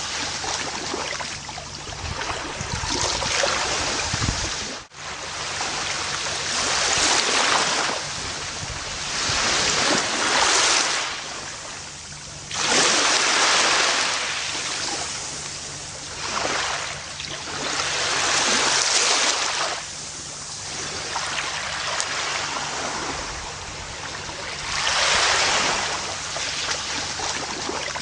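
Ocean waves washing onto a beach, the surf swelling and ebbing in about six surges, with a brief sudden dropout about five seconds in.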